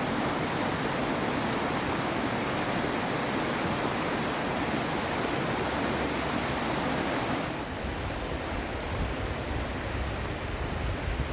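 Steady rush of cascading mountain-stream water. About three-quarters of the way through the sound changes to a duller rush with a deep low rumble.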